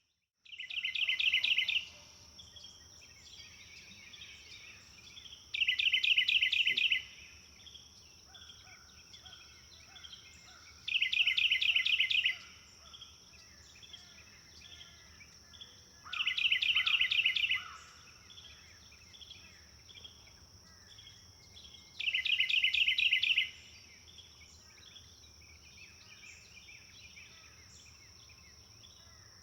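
Birdsong: one bird repeats a short, fast trill of about a second and a half, five times at intervals of roughly five to six seconds, over softer chirping from other birds. A steady high-pitched whine runs underneath.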